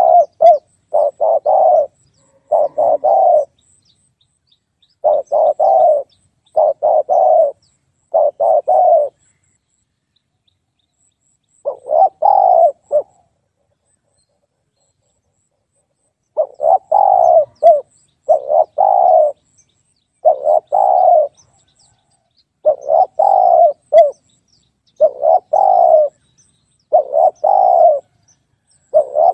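Spotted dove cooing: low, repeated coo phrases about a second long, each broken into a few notes, coming in runs with short pauses and a few longer silent gaps between them.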